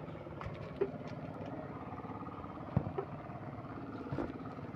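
An engine running steadily, with a few light clicks or knocks of tools on top.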